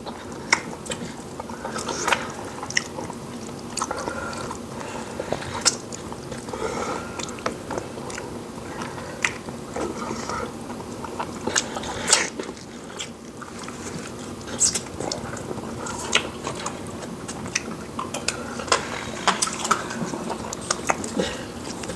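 Close-miked eating sounds of two people eating fufu with soup and meat by hand: wet chewing, with irregular sharp lip smacks and finger-licking.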